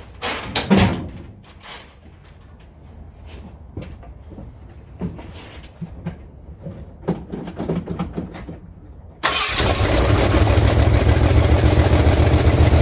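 Scattered knocks and clicks of handling work, loudest about a second in. Then, about nine seconds in, the Ford 351 Cleveland V8 is abruptly heard running loudly and steadily, close up, at an idle the owner finds a little too high.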